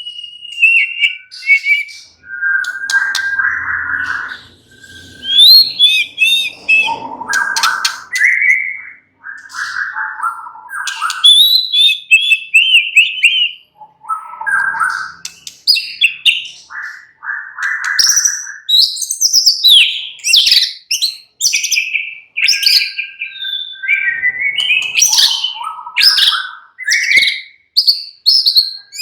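White-rumped shama singing a long, varied song. It mixes clear whistled notes, buzzy phrases and quick runs of high chattering notes, with short pauses between phrases. The runs come thicker in the second half.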